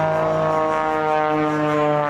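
Extra 300L aerobatic plane's 300-horsepower Lycoming six-cylinder engine and composite propeller droning overhead, the pitch sliding slowly down.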